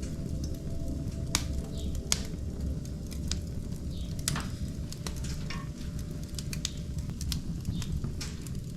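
Wood fire burning in a fireplace: a steady low rush with irregular sharp crackles, the loudest a little over a second in and again about two seconds in.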